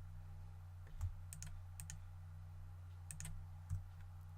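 A few scattered clicks from a computer keyboard and mouse, over a steady low electrical hum.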